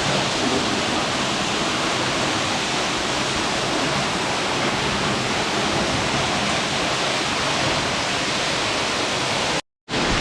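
Waterfall pouring into a canyon pool: a steady, even rushing of falling water, cut off abruptly for a moment near the end before it resumes.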